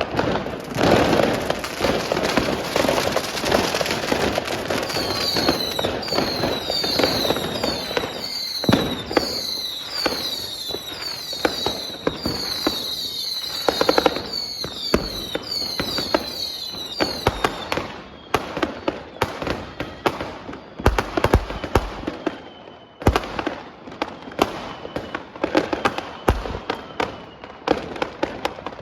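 Fireworks and firecrackers going off: a dense barrage of bangs, then from about five seconds in a long string of whistling fireworks, each with a short falling whistle, several a second over the bangs. After that the whistles stop and separate sharp bangs go off at intervals.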